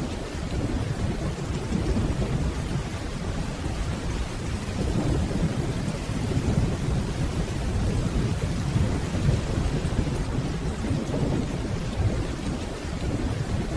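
Steady rainfall with a low, rolling rumble of distant thunder underneath that swells and eases over several seconds.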